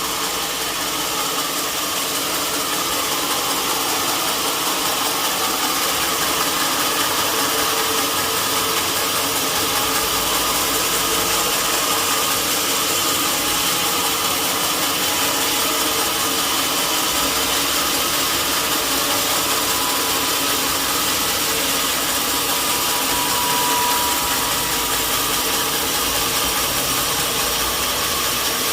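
Sawmill machinery running with a steady, loud mechanical noise that does not change.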